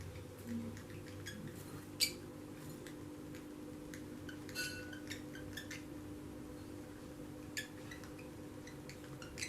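Scattered light clicks and clinks from a small lovebird moving about in a water bowl, the sharpest about two seconds in, over a faint steady hum.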